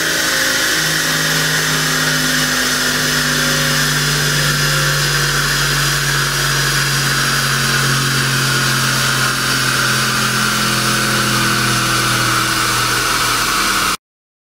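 Porsche Panamera GTS twin-turbo V8 running at a steady high speed on a chassis dyno, its drone holding nearly the same pitch under a loud, even rushing noise from the spinning wheels and rollers. The sound stops abruptly near the end.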